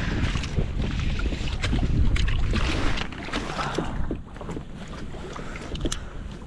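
Water splashing and lapping against a kayak's hull, with small knocks, over a low rumble of wind on the microphone; louder for the first few seconds, then easing.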